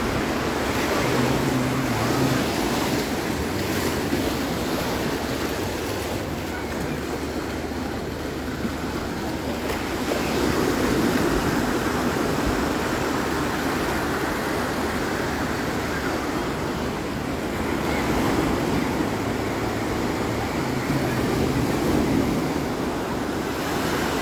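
Sea waves breaking and washing on the shore, a continuous rush that swells louder every several seconds as each wave comes in.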